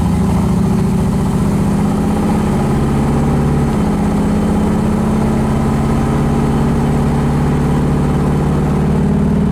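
The 1968 Camaro's 400 cubic-inch V8 with exhaust headers running steadily. Its note shifts slightly about four seconds in.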